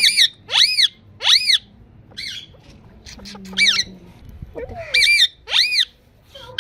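Indian ringneck parrot squawking: a run of short, loud, high screeches, each rising and then falling in pitch, repeated with short gaps.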